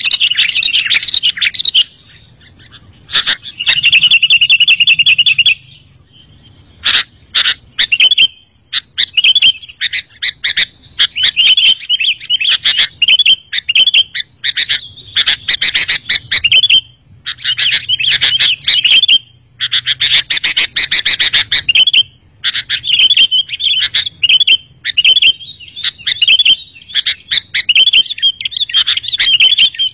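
Sooty-headed bulbul (kutilang) singing loudly in quick, repeated chirping phrases separated by short pauses, with a fast rattling trill about four seconds in.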